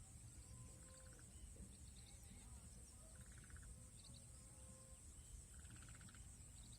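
Faint outdoor ambience: a steady, high-pitched insect drone, with three short rattling trills from a small animal spaced a couple of seconds apart.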